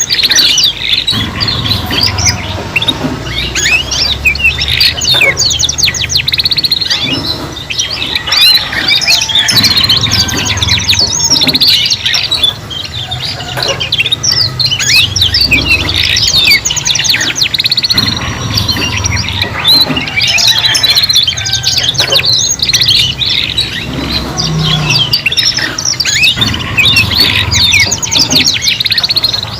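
Several domestic canaries singing at once, with fast rolling trills and chirps overlapping without a break.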